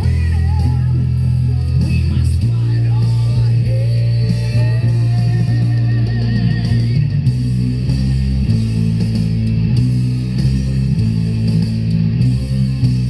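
Rock music led by an electric bass guitar playing loud held low notes that change every second or two, with a higher wavering melody line above it.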